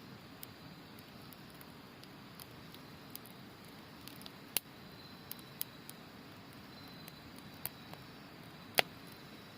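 Wood campfire crackling with scattered sharp pops, the loudest one near the end, over the steady rush of a river. A faint high trill of autumn insects comes and goes.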